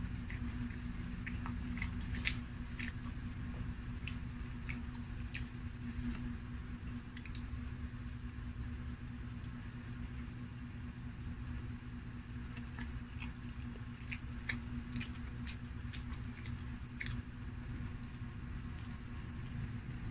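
Close-up mouth sounds of a person biting and chewing ham pizza: irregular wet smacks and clicks. A steady low hum runs underneath.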